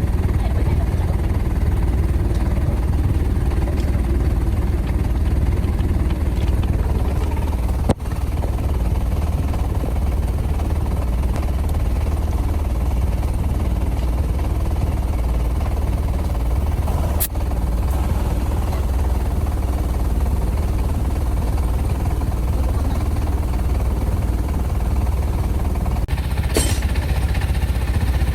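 Steady low mechanical rumble of running machinery, with a couple of short sharp noises near the end.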